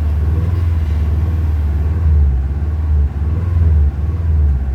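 Subaru STI's 2.5-litre turbocharged boxer four running at a low, steady rumble while it warms up from cold. The engine note swells briefly about two, three and a half and four and a half seconds in, as if from light throttle.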